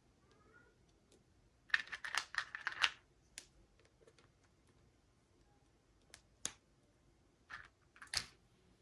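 Small plastic clicks and crinkles from hands unboxing miniature toys: a quick cluster of clicks about two seconds in lasting about a second, then a few single sharp clicks, the last near the end among the loudest.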